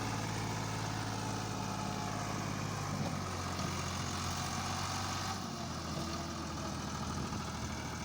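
Diesel engine of a tractor or JCB machine idling steadily.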